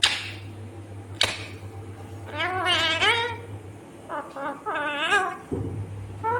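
Indian ringneck parakeet giving two short, sharp screeches about a second apart, then warbling chatter in wavering tones.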